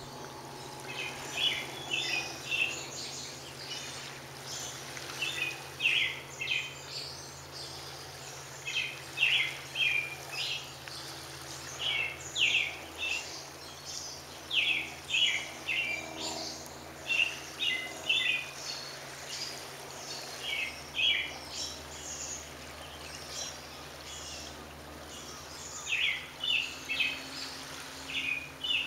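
A bird chirping in quick clusters of two to four high notes, repeated every one to three seconds, over a steady low hum.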